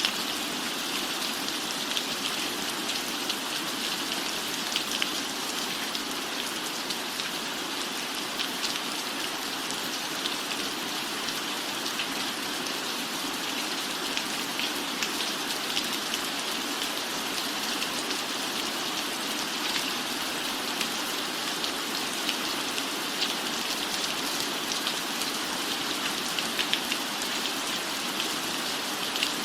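Steady rain falling on a roof: a dense, even hiss dotted with many small, sharp drop ticks.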